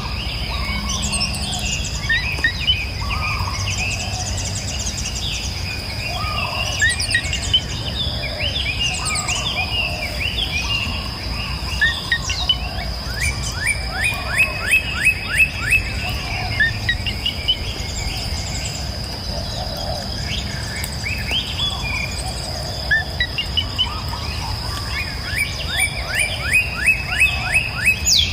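Several songbirds singing and chirping, with repeated runs of quick down-slurred notes, several a second, over a steady high-pitched buzz and a low, even rush of flowing river water.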